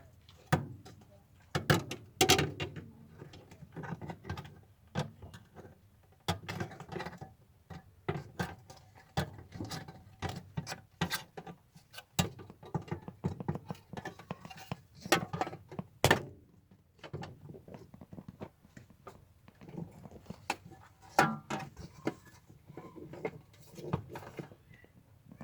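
Irregular knocks, clicks and taps of hand work, tools and parts being handled, with a brief lull about sixteen seconds in.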